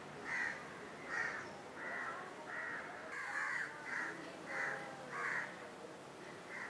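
A bird calling over and over: about nine short, rough calls at an even pace of roughly one and a half a second.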